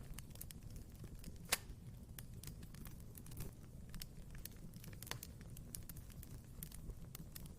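Wood fire burning in a fireplace: a low steady rumble of the flames with frequent small crackles and one sharp pop about one and a half seconds in.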